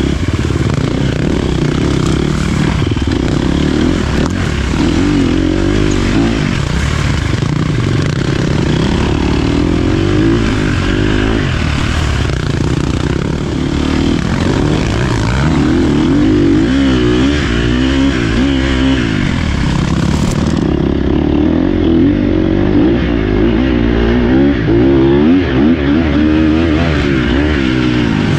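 Dirt bike engine running under load while riding a trail, its revs rising and falling continuously as the rider works the throttle and gears.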